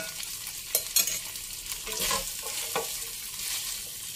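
Chicken pieces and carrot chunks sizzling in curry paste in a nonstick wok. A wooden spatula stirs them, scraping and knocking against the pan several times over a steady frying hiss.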